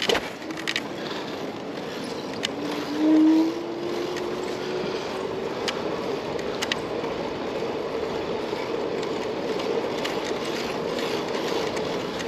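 Wind and road noise of a bicycle ride through a city street, with a few light clicks. A motor whine comes in a couple of seconds in, rises in pitch over a few seconds, then holds steady.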